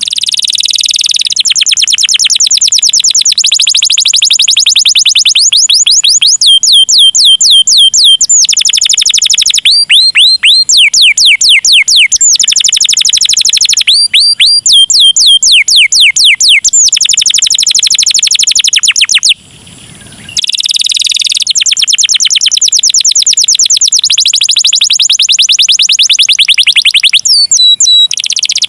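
Domestic canary singing a long song of rapid trills: each phrase is a fast run of identical high notes, switching to a new note type every second or two, with one short break about two-thirds through.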